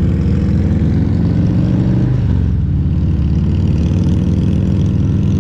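A Harley-Davidson Milwaukee-Eight 114 V-twin motorcycle engine running under way. Its note drops about two seconds in, then runs steady at lower revs.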